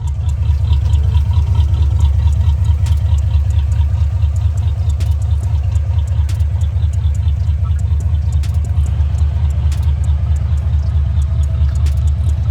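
Chevy Caprice running, a steady low rumble with a fast even pulse that swells slightly about half a second in.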